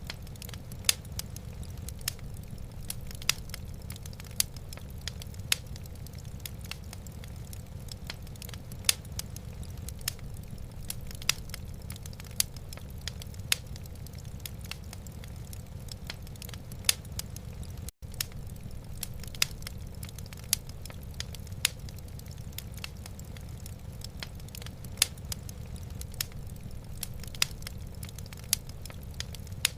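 Wood fire crackling in a fireplace: irregular sharp pops, a few every couple of seconds, over a steady low rumble. The sound cuts out for an instant a little past halfway.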